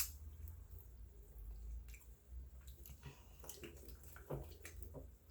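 A sharp click at the start, then faint scattered clicks and small wet sounds over a low steady rumble.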